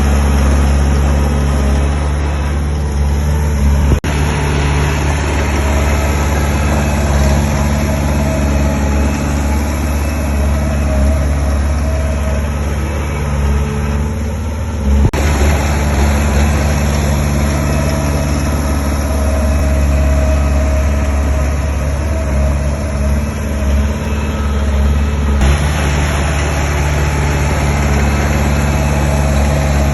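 Diesel engine of heavy earthmoving machinery running steadily, with a brief sharp knock about four seconds in and another about fifteen seconds in.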